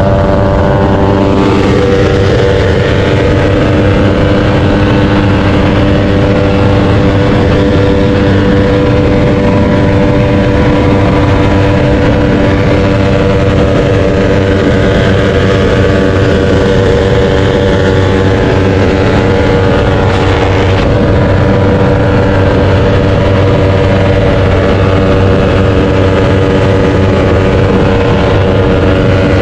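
Motorcycle engine running at a steady note while riding, the exhaust loud and even, with no speech over it.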